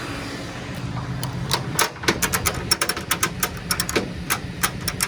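Ratchet strap being cranked tight, its ratchet clicking in quick, uneven runs starting about a second in, over the steady low hum of an idling truck engine.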